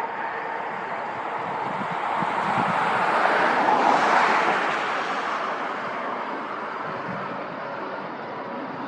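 A vehicle passing by outdoors: noise swells to a peak about four seconds in and then fades back to a steady rumble.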